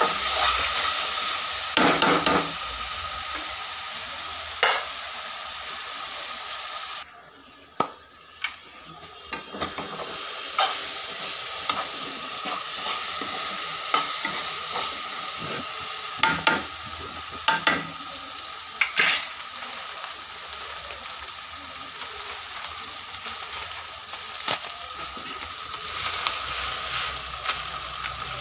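Tomatoes, onion and green chillies sizzling in hot oil in a kadai, stirred with a metal spatula that knocks and scrapes against the pan now and then. About seven seconds in, the sizzle drops suddenly, then builds back up over a few seconds.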